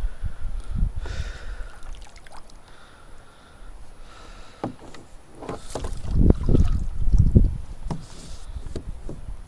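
Wind buffeting the microphone in gusts, stronger about halfway through, with water slapping against a kayak hull and scattered light knocks.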